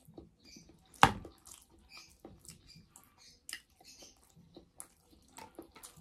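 A person eating by hand and chewing: many small scattered mouth clicks and smacks, with one sharp, louder click about a second in.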